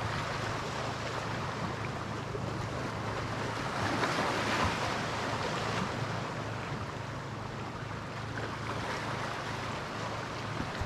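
Steady rush of wind and water with a constant low hum underneath, swelling briefly about four seconds in.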